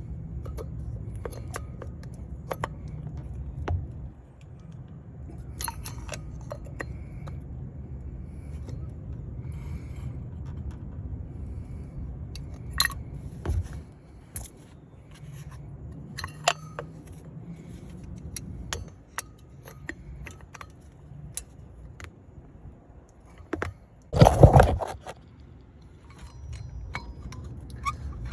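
Metal tools and brake parts being handled: scattered clicks, clinks and scrapes over a low steady hum, with one louder clatter lasting about half a second some 24 seconds in.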